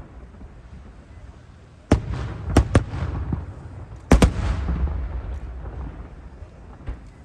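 Aerial firework shells bursting high overhead. One loud bang comes about two seconds in, then two quick bangs close together, then a double bang about four seconds in, each trailing off in a low rumble.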